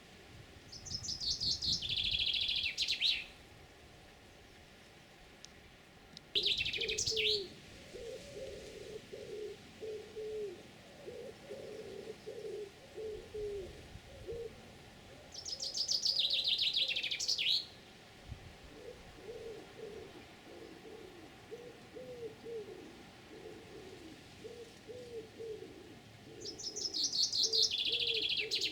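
Garden birdsong: a songbird sings four short, fast-trilled phrases spaced several seconds apart. A pigeon coos softly and repeatedly in the background through most of the clip.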